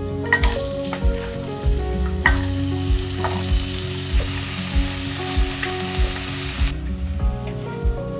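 Chopped onion and zucchini sizzling as they are sautéed in olive oil in an enamelled cast-iron pot, with a few knocks of a wooden spatula stirring. The sizzle grows louder about two seconds in and cuts off suddenly near the end. Soft background music with a steady beat plays underneath.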